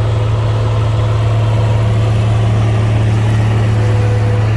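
Heavy equipment diesel engine running steadily, a constant low hum.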